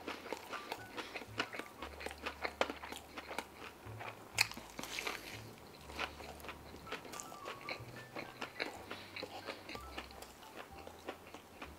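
Close-miked biting and chewing of a fried chicken slider: a steady run of wet mouth clicks and crunches, the sharpest about four and a half seconds in.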